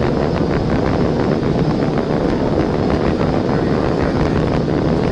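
Steady road, wind and engine noise inside a police patrol car driving at high speed.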